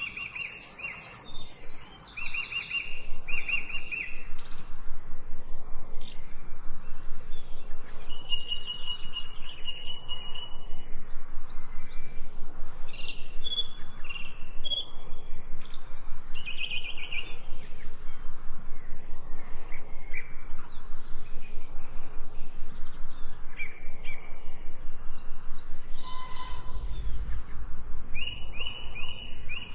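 Several forest birds chirping and singing, with many short calls, trills and whistles overlapping. Under them, from a few seconds in, runs a fast even pulse of about three beats a second.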